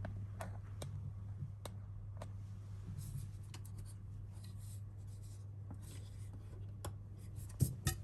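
Light scraping and scattered small clicks of hand work on a washing machine's parts, with two sharper clicks near the end, over a steady low hum.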